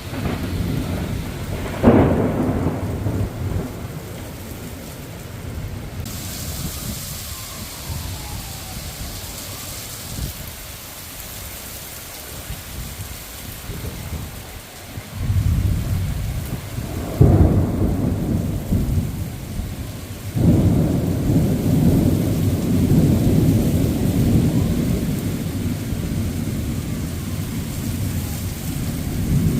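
Thunderstorm: a sharp, loud thunderclap about two seconds in, then long low rolling rumbles of thunder through the second half, over a steady hiss of rain.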